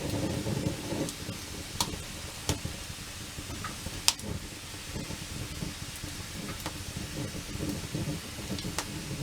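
Wood campfire burning with a steady low rumble of flames, broken by about five sharp crackling pops from the burning wood, the loudest about four seconds in.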